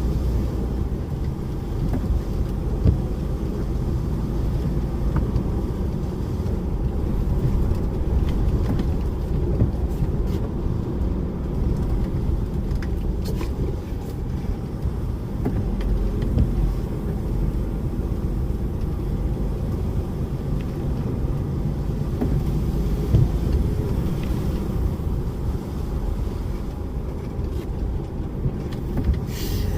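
DAF lorry on the move: a steady diesel engine rumble with road noise, holding an even level throughout.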